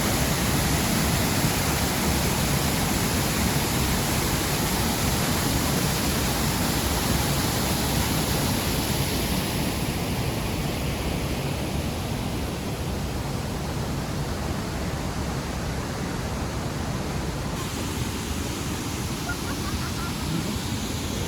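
Steady rush of the Triberg waterfalls' cascading water, a dense even noise that grows a little duller and quieter about halfway through.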